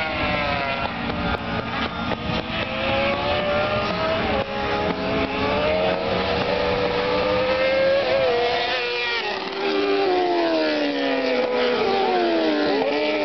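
Racing superbike engines at high revs. The pitch climbs steadily for about eight seconds under acceleration, then drops and falls in steps as they brake and downshift, and starts rising again near the end.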